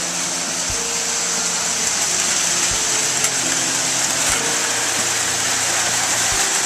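Steady whirring hiss of vintage toy electric trains running on their track, with music of held, changing notes playing underneath.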